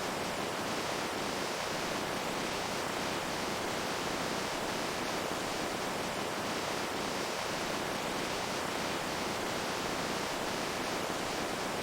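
Running water: a steady, unbroken rush of noise that does not change.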